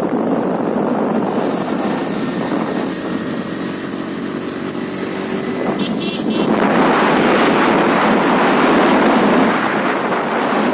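Wind rushing over the microphone of a moving Honda Dio scooter, with the scooter's small engine running underneath. The wind noise swells louder a little past halfway through and eases off near the end.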